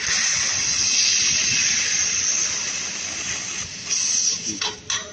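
Handheld fiber laser gun cutting metal with its cutting nozzle: a steady hiss of gas rushing from the nozzle. It breaks off briefly a little before four seconds in, resumes, then stops with a few sharp clicks near the end.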